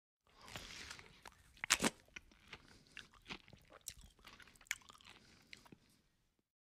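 A person chewing food close to the microphone, with irregular crunches and wet mouth clicks; the loudest, a sharp crunch, comes a little under two seconds in. The sound stops suddenly about six seconds in.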